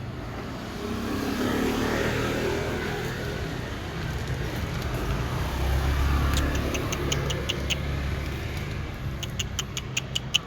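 Road traffic: a car engine's low rumble swelling as vehicles pass, twice. Two quick runs of sharp clicks come about six seconds in and near the end.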